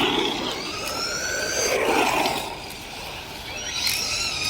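Electric motors of radio-controlled cars whining as they accelerate, over a noisy hiss from the tyres. A whine rises in pitch about half a second in, and another rises near the end.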